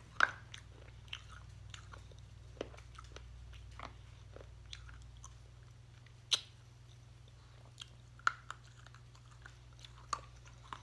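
Close-up mouth sounds of biting and chewing a chalky candy cigarette: scattered sharp crunches and clicks every second or two, the loudest about six seconds in.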